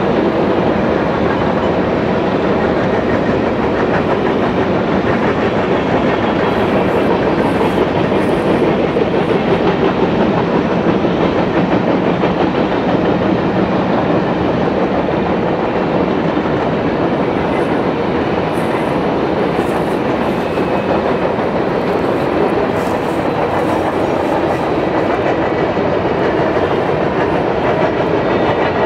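Covered hopper cars of a long freight train rolling past steadily, their steel wheels running on the rails.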